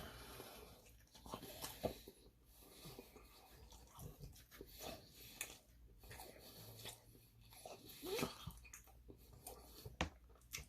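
Quiet close-up chewing, with soft crunches and small wet mouth clicks as food is bitten and chewed.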